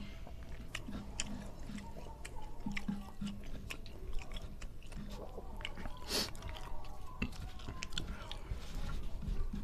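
Close-up chewing with wet mouth smacks and small clicks as a man eats rice and fish by hand, with one louder smack about six seconds in.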